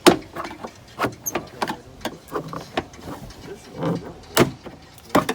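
Irregular knocks, clicks and rattles of hand work on a truck, metal and plastic parts being handled, with sharper knocks near the start, about a second in and about four and a half seconds in.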